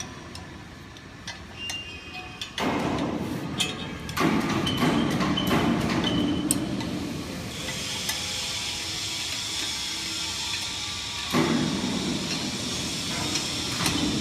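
Industrial machinery running, with scattered metallic knocks at first, then a dense steady rumble from about three seconds in. A steady hiss joins it about halfway through.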